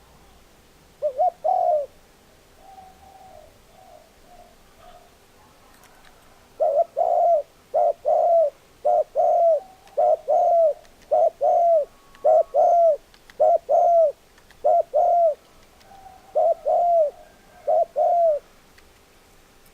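Spotted dove cooing. A loud pair of coos comes about a second in, then softer, fainter coos, then a long run of loud coos in quick pairs from about seven seconds until near the end.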